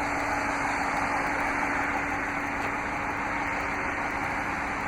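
2016 Dodge Charger R/T's 5.7-litre HEMI V8 idling steadily, running after a remote start.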